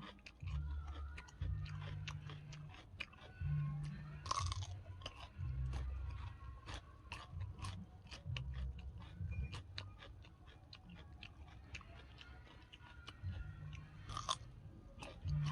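A person chewing and crunching food close to the microphone, with many short sharp mouth clicks and irregular low thuds.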